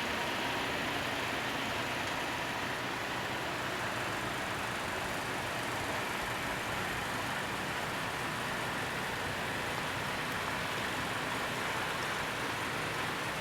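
Steady vehicle noise: an even hiss with a low engine hum underneath, unchanging and without distinct knocks or passes.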